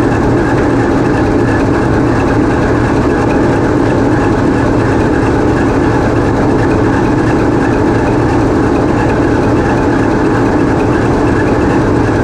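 TEP70 locomotive's 16-cylinder 2A-5D49 diesel engine running steadily, heard from inside its engine room, a dense, loud, unbroken mechanical din.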